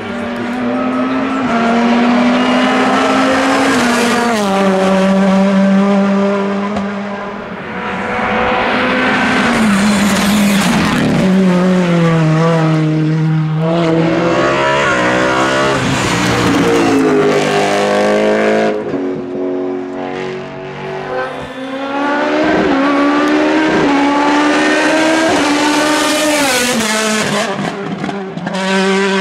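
Hillclimb race car engines at high revs on full attack, the pitch climbing and dropping back again and again as the cars change gear and brake for corners.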